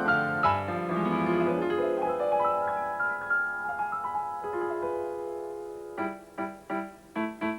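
Piano playing: long held chords that step downward, then from about six seconds in, short detached chords repeated about three times a second.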